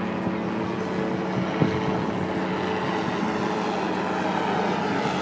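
Steady drone of an engine, a low hum that holds an even pitch.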